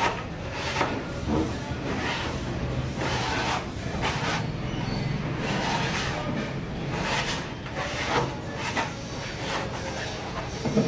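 Repair work on a washing machine: irregular scraping, rubbing and knocking of tools and parts being handled, over a steady low hum.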